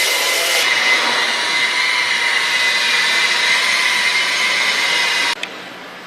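Rotary buffer running steadily with a wool pad against a clear-coated wood tabletop, polishing out sanding scratches with ceramic polish: a steady motor whine over the rush of the pad. It stops suddenly a little after five seconds in, with a short click just after.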